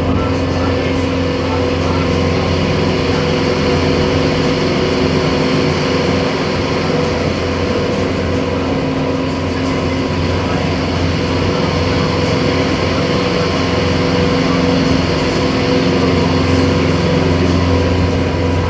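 Boat engine running steadily, a constant drone with a low hum.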